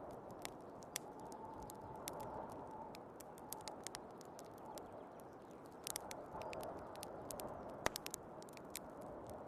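Wood fire crackling, with irregular sharp pops and snaps, over the steady hiss and low whistle of storm wind.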